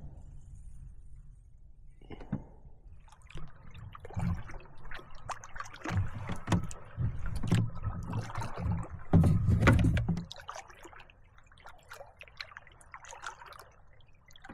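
Canoe paddle strokes in the water, with splashing and dripping in an irregular rhythm, loudest about nine seconds in and easing off after ten.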